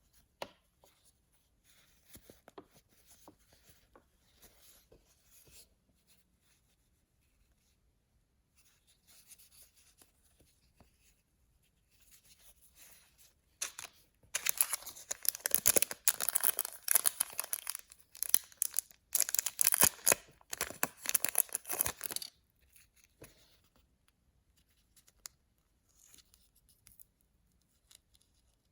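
Soft handling and rustling of packaging, then packaging being torn open in two long rips of about four and three seconds, with a brief pause between.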